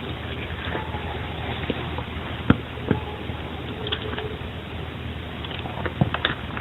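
Amplified field recording: a steady hiss and low hum with a few sharp clicks or knocks, the loudest about two and a half seconds in and a small cluster near the end.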